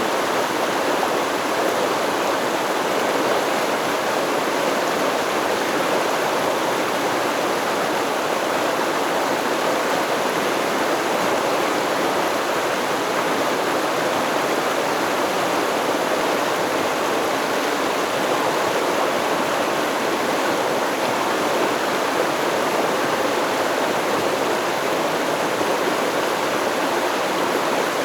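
Stream water rushing and babbling over rocks, steady and unbroken.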